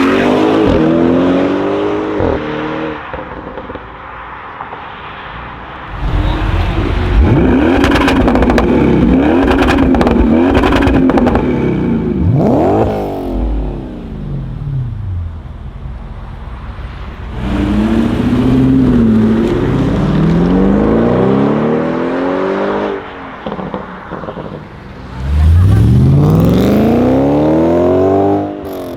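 Audi RS6 C7 Performance's twin-turbo V8 through an Akrapovic exhaust, revving and accelerating hard in four loud bursts, its pitch rising and falling, with sharp cracks in the second burst. The last burst, near the end, is the loudest, a long rising pull.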